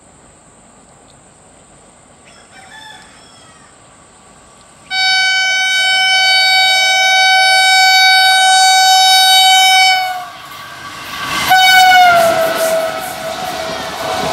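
WAP4 electric locomotive's horn: one long steady blast of about five seconds, then after a short pause a second blast that drops in pitch as the locomotive passes, over the growing rumble of the passing train.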